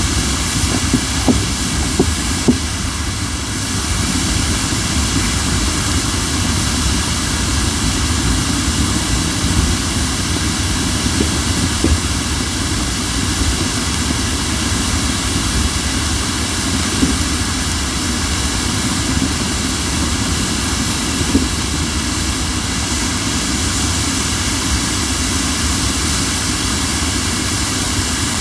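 Crape myrtle firewood burning with a steady hiss of moisture steaming out of the logs, with a few small pops. The strong hissing and scarce crackling are a sign that the wood still holds moisture.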